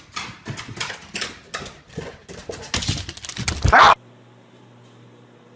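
A dog's repeated vocal noises, a quick irregular string of them, growing louder and cutting off sharply near the end; then only a faint steady hum.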